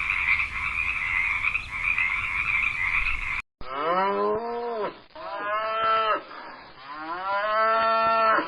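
A steady frog chorus that cuts off about three and a half seconds in, followed by a cow mooing three times, each a long call that rises and then falls in pitch.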